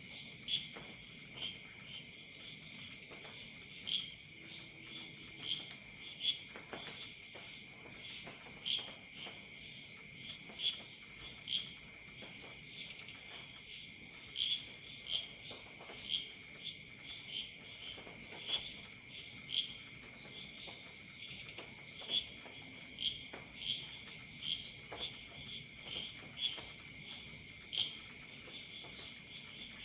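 Crickets and other night insects: a steady high trill under repeated short chirps, roughly one to two a second, with faint scattered clicks beneath.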